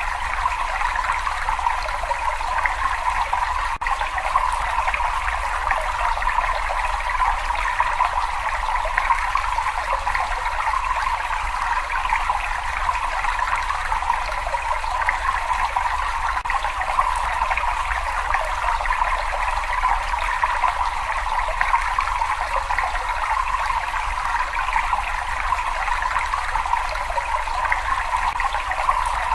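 Water trickling and flowing in a cave, a steady, even rush with no breaks, over a faint low rumble.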